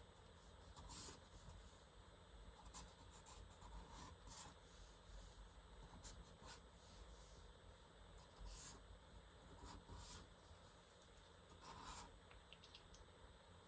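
Faint, quick drawing strokes scratching across paper during gesture sketching, a short scratch every second or two at an uneven pace.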